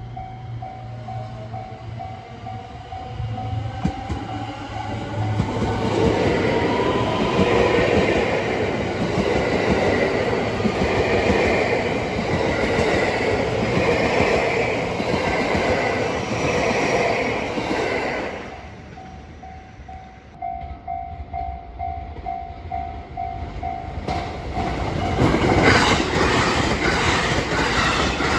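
Level-crossing warning bell ringing in a steady pulse as a train draws near, then a train passes over the crossing with a loud rumble of wheels over the rail joints. The bell is heard again as the train fades, and another train comes through near the end with sharp rhythmic clicks of its wheels over the joints.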